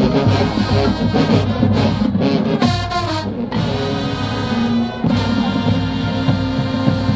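Marching band playing, brass to the fore, with a quick rising run about three seconds in and a held low note a couple of seconds later.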